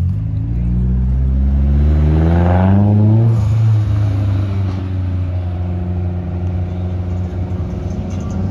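A car engine revving up, climbing steadily in pitch for about three seconds, then dropping back sharply and settling into a steady idle.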